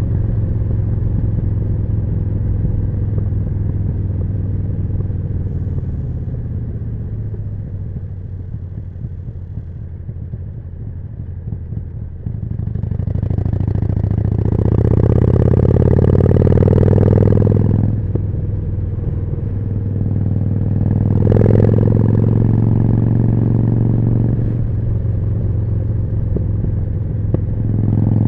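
Harley-Davidson Forty-Eight's air-cooled V-twin through a Jekill & Hyde exhaust, heard on the move. The engine runs steadily, then eases off and grows quieter for a few seconds. About halfway through it opens up hard with the pitch rising, drops back suddenly, and pulls again briefly before settling into a steady run.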